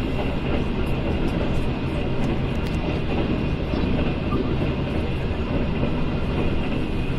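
Steady rumble of a moving passenger train heard from inside the coach: wheels running on the rails and the car body rattling, with a few faint ticks.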